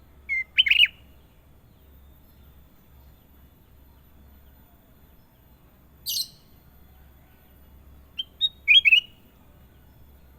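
Kutilang emas, a bulbul, singing in short bursts: a brief clear phrase near the start, a single harsh rasping note past the middle, and a quick run of chirping notes near the end.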